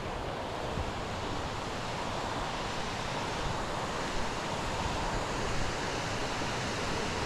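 Steady rush of a fast-flowing mountain stream, growing slightly louder.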